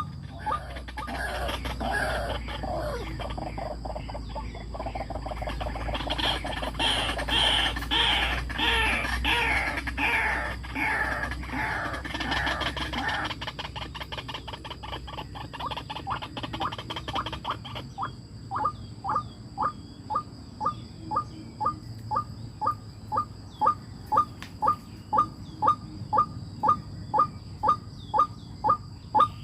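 Birds calling. For the first dozen seconds there is a busy jumble of chirps over rustling noise. From about two-thirds of the way in, a single short, downward-falling call repeats about twice a second.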